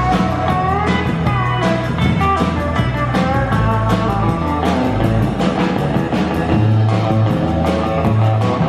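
Live band playing an instrumental break in a country truck-driving song: a lead guitar line with bent notes over bass and a steady drum beat.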